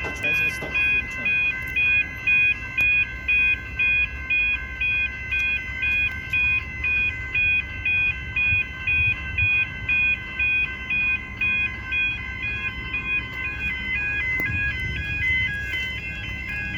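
Railway level crossing warning bells ringing: an electronic ding-ding repeating about twice a second. The pulsing eases after about thirteen seconds while a low rumble builds near the end.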